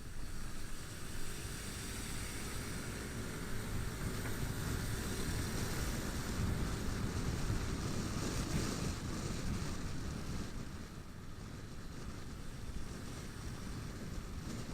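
Motorcycle riding noise: wind rushing over the camera microphone over a steady low engine and road rumble, a little louder around the middle and easing about ten seconds in.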